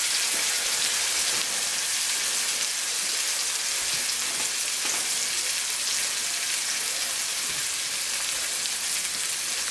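Turkey burger patty frying in a skillet: a steady sizzle with a few faint pops.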